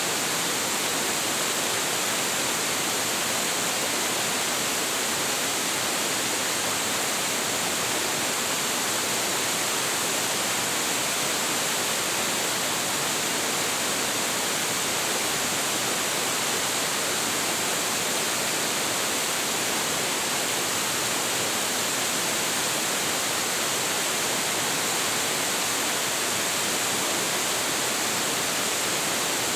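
A large waterfall, water plunging and crashing into its pool in a steady, full roar that doesn't change.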